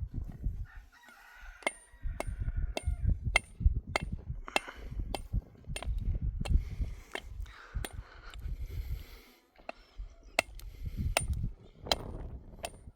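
Repeated sharp knocks of a hand tool striking a hard surface, about two a second, each with a thin metallic ring. There is a pause of a couple of seconds past the middle, and low rumbling noise runs between the strikes.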